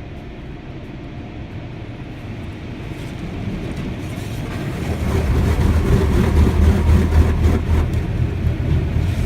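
Car road noise: a low rumble that builds and is loudest from about five seconds in.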